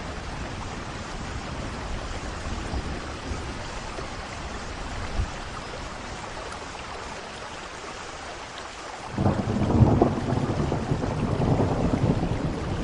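Steady rainfall, with a short crack about five seconds in. About nine seconds in a loud roll of thunder breaks in suddenly and keeps rumbling and crackling to the end.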